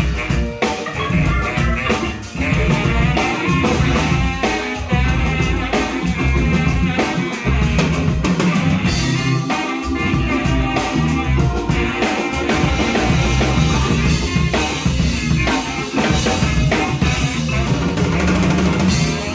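Live soul-jazz band playing an instrumental groove. A drum kit keeps a steady beat under bass, keys, guitar, trumpet and saxophone.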